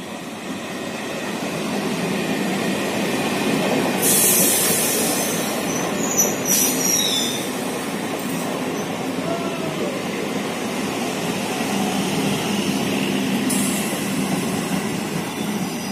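Twelve-coach EMU electric local train running past close by as it pulls into the station, a steady rumble of wheels on rails building over the first few seconds. A burst of hiss comes about four seconds in, and brief high wheel squeals follow around six to seven seconds.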